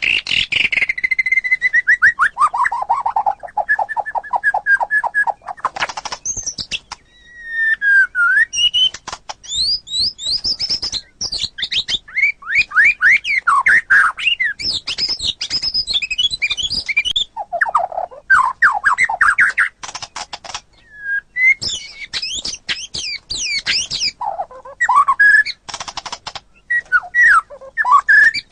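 White-rumped shama (murai batu) singing a long, varied song of rapid trills, whistled notes and descending sweeps, with only brief pauses between phrases.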